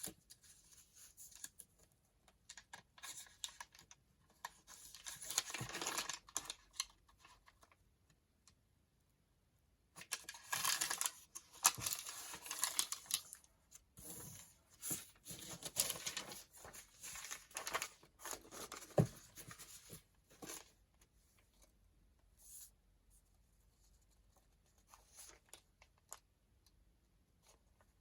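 Sheets of paper rustling and crinkling as they are handled and arranged, in irregular bursts with a pause of about two seconds near eight seconds in, then growing faint after about twenty seconds.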